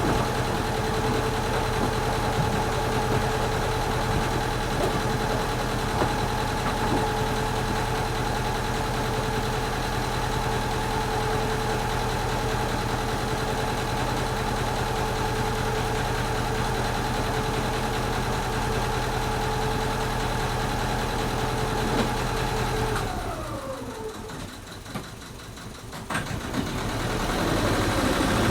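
A vehicle engine idling steadily with a constant whine. About 23 seconds in it is switched off, and its pitch slides down as it winds down. After a click, the sound builds up again near the end.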